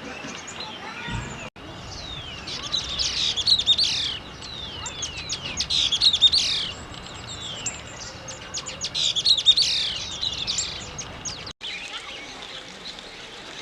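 Songbirds chirping, with three loud bursts of rapid, high, downward-sweeping chirps about three seconds apart amid steadier background twittering.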